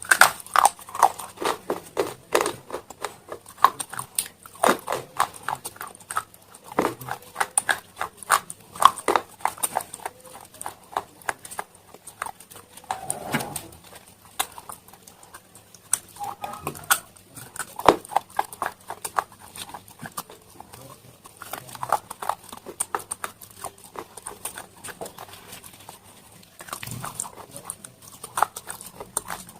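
Close-up crunching and chewing of brittle slate stone pieces in the mouth: dense, irregular sharp cracks and clicks as the pieces are bitten and ground down.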